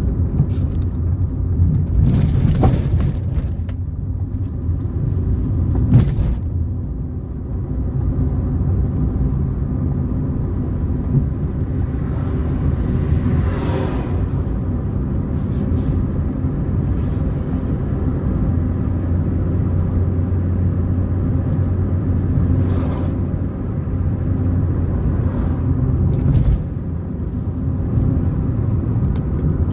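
Car driving along a road: a steady low rumble of engine and tyres, with a few short knocks and thuds scattered through it.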